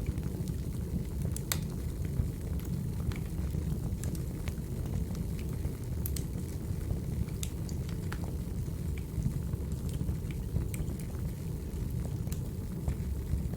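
Crackling wood fire: a steady low rumble with sharp pops and snaps at irregular moments.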